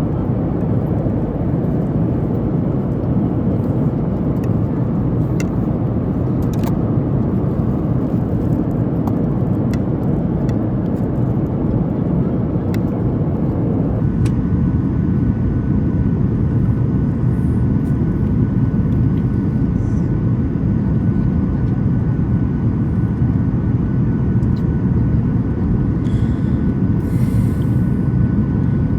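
Steady in-flight cabin roar of a Boeing 737 MAX 8, the engine and airflow noise heard from inside the cabin. About halfway through the sound changes abruptly: the roar turns duller and a faint steady whine comes in.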